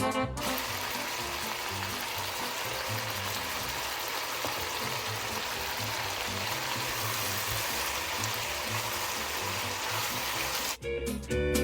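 Chicken cooking in a pan, a steady sizzling hiss that holds even for about ten seconds.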